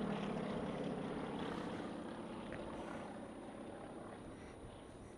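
Propeller aircraft engine droning as the plane flies away, fading steadily throughout.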